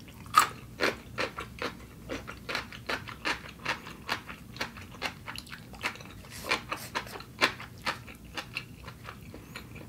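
Close-miked chewing of a mouthful of food: soft wet mouth clicks and smacks, about two or three a second.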